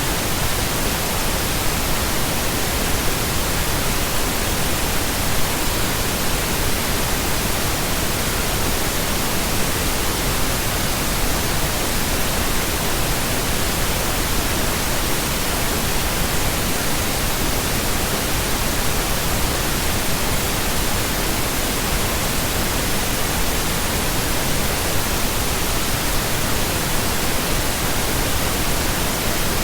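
Steady, continuous pink noise: an even, unchanging hiss.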